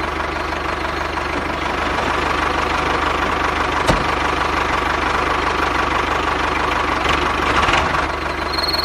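A small motor running steadily with a fast, even pulse, with one sharp click about four seconds in.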